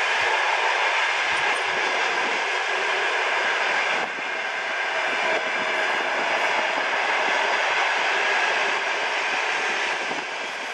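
Passenger train coaches rolling past close by: a steady, loud rush of wheels on rail that drops away near the end as the train recedes.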